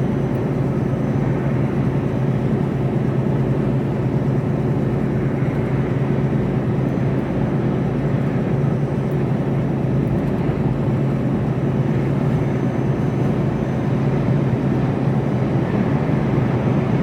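Steady engine drone and road rumble inside the cab of a Mercedes Actros lorry cruising at a constant speed, with a steady low hum.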